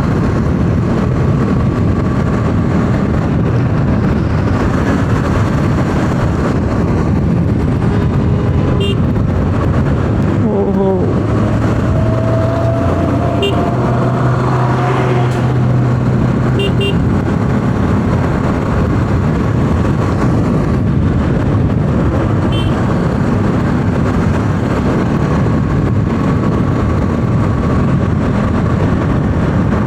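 Road noise on a moving Bajaj Pulsar 200 NS: wind rush and the single-cylinder engine running steadily at cruising speed in traffic. Around the middle another vehicle passes with a few seconds of steady droning tone.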